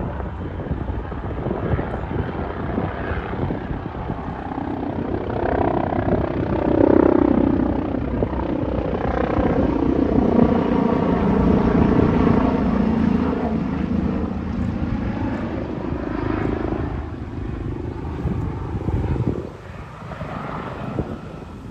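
Air ambulance helicopter flying low overhead. The rotor and engine noise grows louder over the first several seconds, stays strong for about ten seconds, then fades, dropping off sharply near the end.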